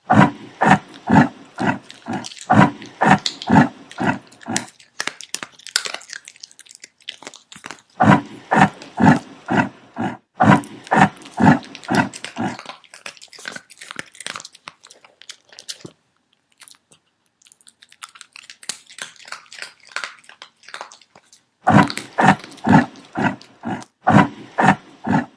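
An animal making a rapid series of short, repeated calls, about two or three a second, in three bouts separated by quieter stretches.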